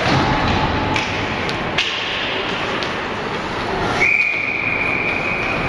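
Ice hockey referee's whistle blown in one long, steady blast starting about four seconds in, stopping play. Before it come a few sharp knocks of sticks and puck over the steady noise of the rink.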